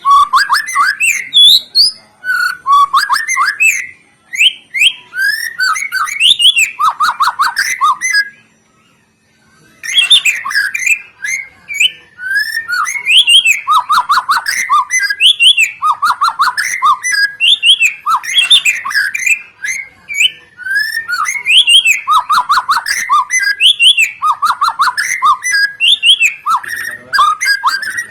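Songbirds including a white-rumped shama singing loudly and continuously: varied clear whistles, slurred notes and rapid repeated trills, with one brief pause about eight seconds in.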